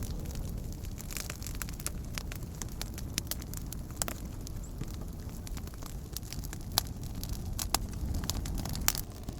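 Wood campfire burning, with scattered sharp crackles and pops over a low steady rumble; a few louder pops come in the second half.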